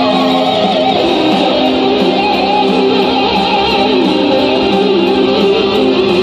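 Electric guitar playing a melodic instrumental lead, with held notes that waver and bend, over a steady lower sustained note.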